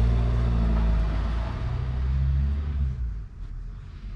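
A motor vehicle engine running with a steady low hum, dying away about three seconds in.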